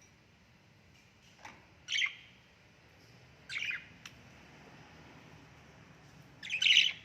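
A parrot calling in short, sharp bursts: a loud call about two seconds in, another a second and a half later, and the loudest near the end.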